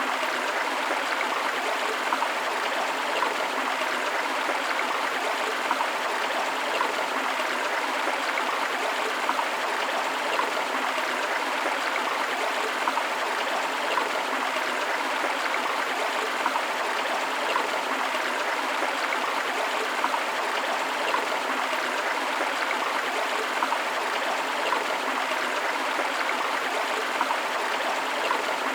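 River water running steadily over rocks, with small splashes and gurgles.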